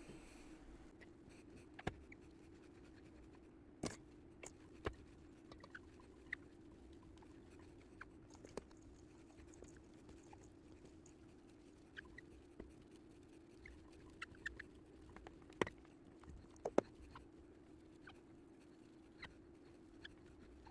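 Moist parrot chop of soaked seeds and vegetable pulp being mixed by hand in a bowl: faint soft scraping and scattered small clicks over a low steady hum.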